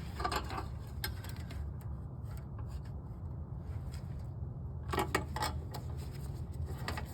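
A few short clicks and rubbing noises of metal snowblower parts being handled and fitted by hand, over a steady low hum.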